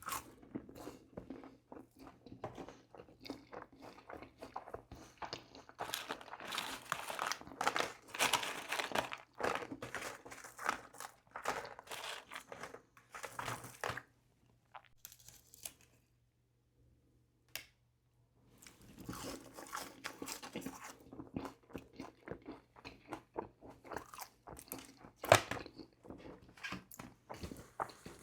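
Close-miked chewing and crunching of McDonald's food, with wet mouth clicks. The chewing stops for about four seconds around the middle, then resumes, with one sharp click near the end.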